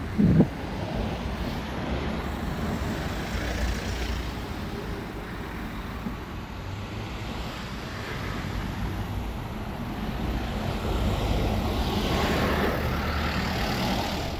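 Freight train of tank wagons behind an EF210 electric locomotive running through the station: a steady low rumble that swells and grows brighter towards the end. A short loud thump comes right at the start.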